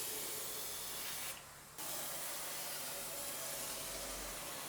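Cavity wax spraying into a car's rocker panel and A-pillar: a steady hiss that stops briefly about a second in, then carries on.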